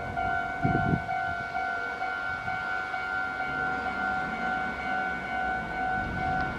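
A steady, high-pitched electronic tone with overtones, like an alarm or siren, holding one pitch throughout, over a faint low hum. There is a short low thump about a second in.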